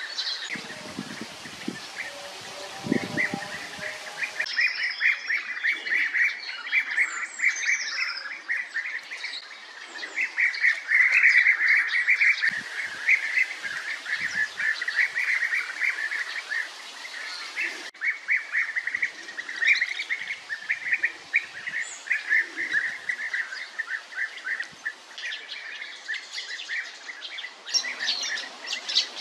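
European bee-eaters calling: a near-continuous stream of short, repeated notes from several birds at once, busiest in the middle, with a few higher chirps mixed in.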